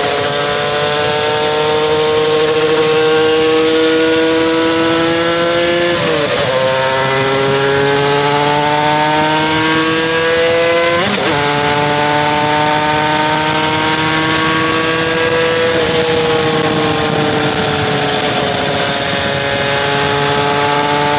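Aprilia RS250's two-stroke V-twin engine running hard, its revs climbing slowly, then dropping and picking up again twice in quick breaks about six and eleven seconds in, and easing lower a little after fifteen seconds.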